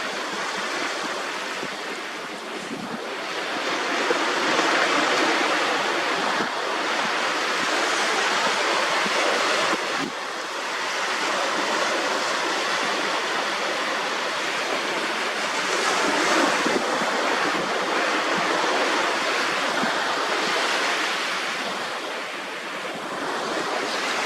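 Small sea waves washing onto the shore close by, an even rushing that swells and eases every few seconds.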